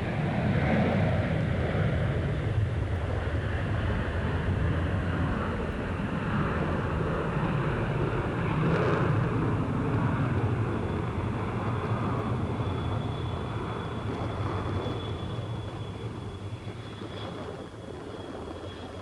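Jet airliner engines rumbling steadily, slowly fading over the last few seconds, with a thin high whine coming in about halfway through.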